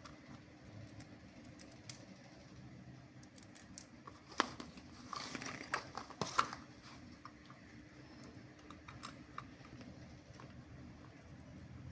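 Scattered light clicks and taps, with a short run of louder sharp clicks and rustling from about four and a half to six and a half seconds in.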